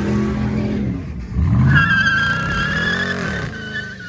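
A car engine revving hard during a burnout, its pitch climbing again about a second and a half in, with the tyres squealing in a steady high tone through the middle.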